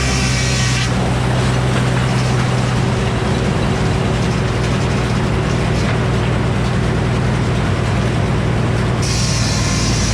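Frick sawmill running steadily under power, its circular head saw cutting through a poplar log from about a second in until near the end.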